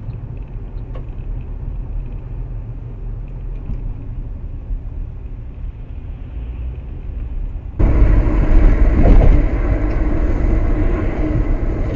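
A car's steady low road and engine rumble as heard from inside a moving car. About eight seconds in it switches abruptly to a louder, fuller rumble.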